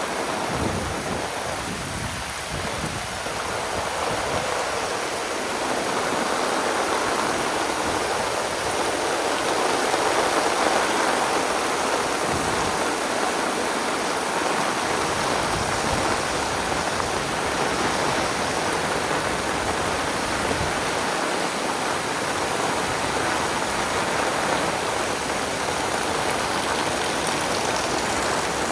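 Heavy rain pouring down steadily, a dense even rushing hiss with water streaming and splashing.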